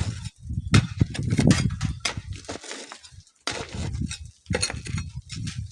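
Sand and stones being shovelled and sifted, gravel crunching and clinking in irregular strokes, with gusts of strong wind on the microphone.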